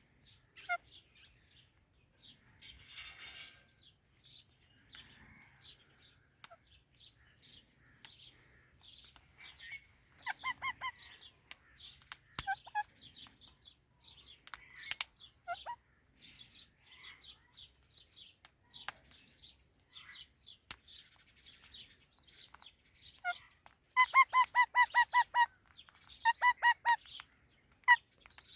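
Indian ringneck and Alexandrine parrots chirping softly and often. Near the end come two runs of loud, rapid, harsh repeated squawks.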